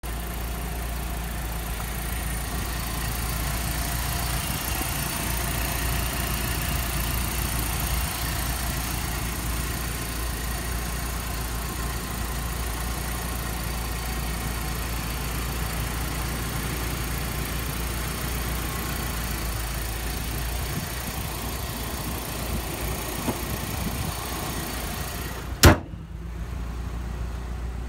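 Nissan Silvia S13's four-cylinder engine idling steadily, heard with the bonnet open. Near the end the bonnet slams shut with one sharp bang, and after it the engine sounds muffled.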